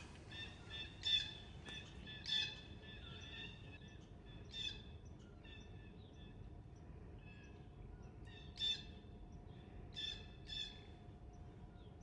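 Birds calling outdoors: a series of short, harsh chirping calls repeated every second or so, the loudest three coming about a second in, near two and a half seconds, and near nine seconds, over a faint steady background.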